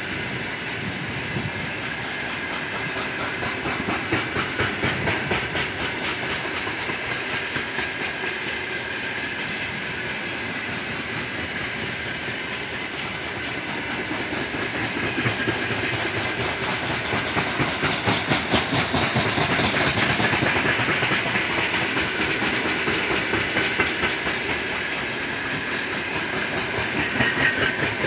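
Loaded coal wagons of a freight train rolling past, their wheels clattering rhythmically over rail joints with a steady rolling rumble and hiss. The clatter swells louder twice as heavier stretches of the train go by.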